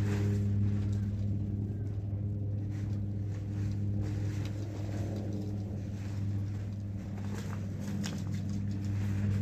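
An engine or motor running at a steady speed, giving an unchanging hum, with scattered light knocks and clicks on top.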